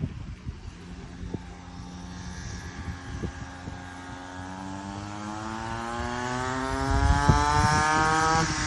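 A 50cc mini dirt bike engine accelerating, its pitch climbing steadily for about seven seconds as it gets louder, then dropping suddenly near the end.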